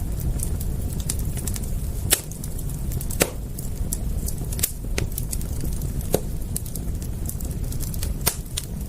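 Wood campfire crackling, with irregular sharp pops over a steady low rumble; a few louder snaps stand out.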